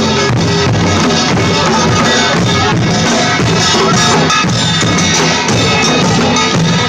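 Loud live music with drums and percussion playing continuously over sustained melodic instruments.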